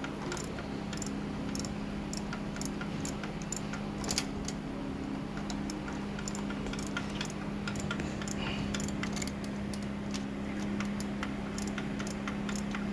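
A steady low hum with light, irregular ticks and clicks over it, one sharper click about four seconds in.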